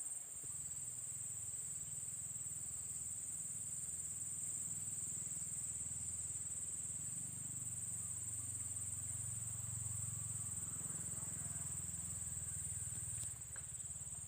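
A chorus of insects trilling steadily at a high pitch, over a low, steady rumble, with one faint click near the end.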